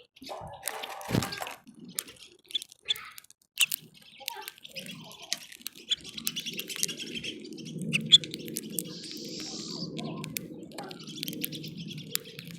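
Small birds chirping at a backyard feeder, with many short sharp clicks and taps scattered throughout. From about halfway a low steady rumble comes in underneath.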